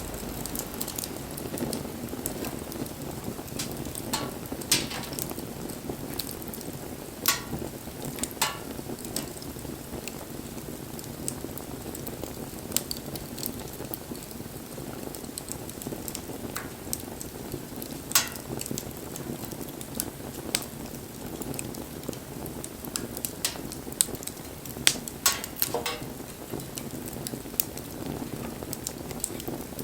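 Wood campfire burning with a steady low rushing hiss and frequent sharp crackles and pops of burning wood. A handful of louder snaps come several seconds apart, with a cluster of them about three-quarters of the way through.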